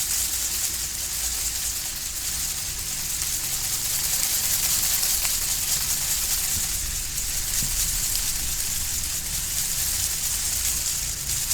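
Steady hiss, strongest in the high range, over a low rumble, with no distinct events.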